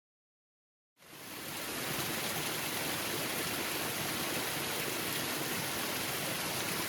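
Silence, then a waterfall's steady rush of falling water fades in about a second in and holds even.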